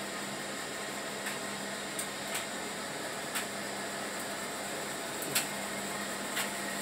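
An 11 kg Whirlpool washing machine spinning, giving a quiet, steady hum with a low tone, and a few light clicks over it.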